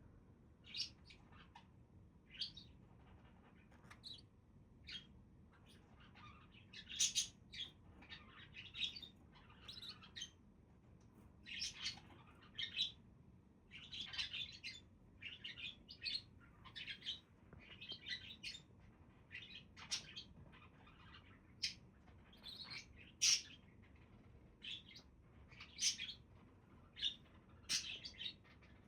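Budgerigars chirping and warbling: a steady run of short, high chirps and chattering phrases, several birds calling in turn.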